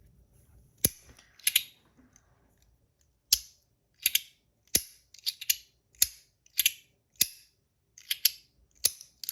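Compoform Astronaut Coin, a metal slider fidget, being slid back and forth by hand, its halves snapping into place with sharp metallic clicks. About a dozen clicks come at uneven intervals from about a second in, several of them doubled.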